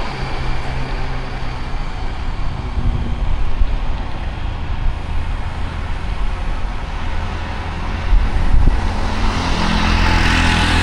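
City street traffic: vehicle engines running steadily with road noise, one engine's hum growing louder near the end as a vehicle comes close.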